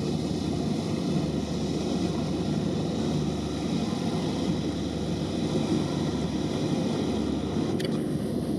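Steady low engine rumble of a boat.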